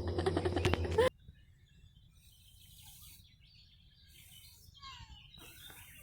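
A loud steady droning hum cuts off abruptly about a second in. After it, small birds chirp faintly in short, quick phrases over a quiet woodland background.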